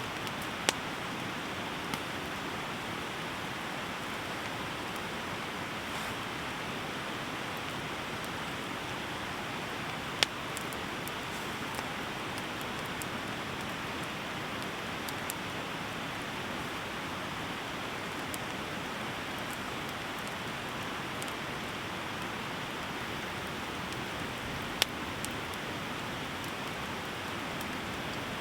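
Heavy rain falling steadily, with a few sharp clicks standing out above it about four times.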